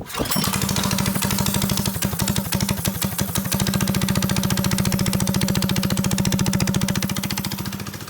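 Predator 212 single-cylinder four-stroke go-kart engine with a stage 1 upgrade kit starting up and running steadily, a fast even firing beat, easing off a little near the end. It is quite loud through the exhaust.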